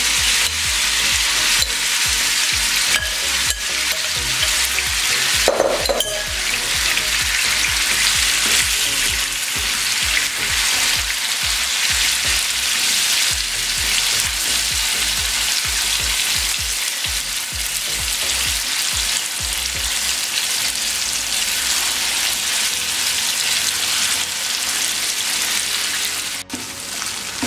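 Marinated boneless chicken cubes frying in hot oil in a non-stick pan: a steady sizzling hiss, with occasional scrapes and knocks from a silicone spatula stirring the pieces.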